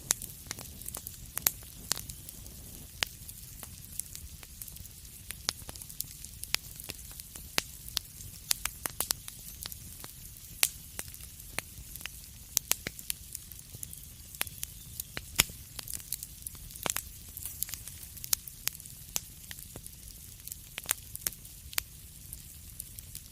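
Fire in a fireplace crackling: irregular sharp pops and snaps, a few much louder than the rest, over a steady low rumble and faint hiss.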